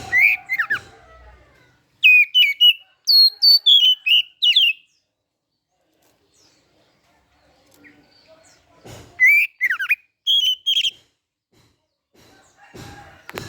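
Oriental magpie-robin singing: loud phrases of rapid, sweeping whistled notes. The first starts right away, the next runs for about three seconds, and a third comes after a pause of several seconds.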